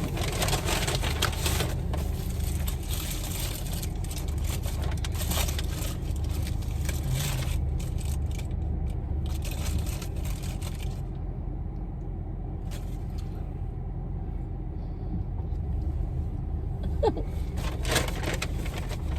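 Car cabin noise: a steady low rumble of the engine and road heard from inside the car, with stretches of hiss over it for the first half and briefly near the end.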